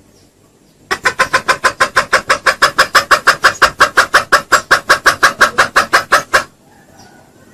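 Junglefowl giving a loud, fast run of clucks, about seven a second, starting about a second in and stopping sharply near the end, the kind of call used as a lure for wild junglefowl.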